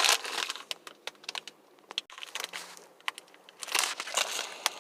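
Small plastic-film snack-chip bag crinkling as it is handled, in bursts around the start and again near the end with scattered crackles between.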